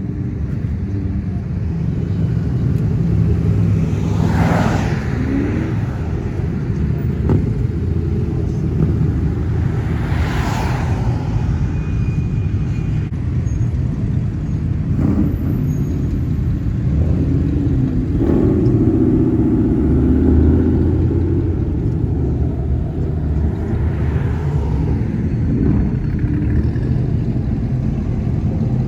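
Classic cars cruising past with a steady low engine rumble; two pass close, swelling and fading, about four and ten seconds in, and an engine tone holds for a few seconds past the middle.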